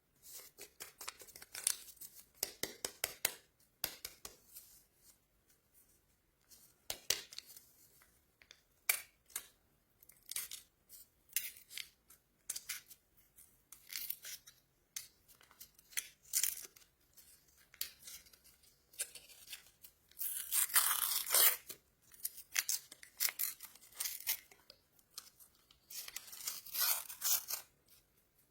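Plastic candy wrappers being torn open and crinkled by hand: a run of short crackles and rustles, with a longer stretch of tearing about twenty seconds in.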